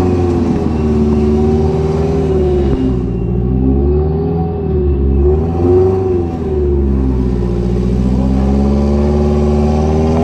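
Off-road 4x4 engine revving up and down under throttle as the vehicle climbs a narrow muddy track, over a low steady engine hum.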